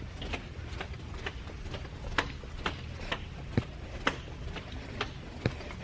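Footsteps at a walking pace, sharp evenly spaced steps about two a second, over a steady low hum.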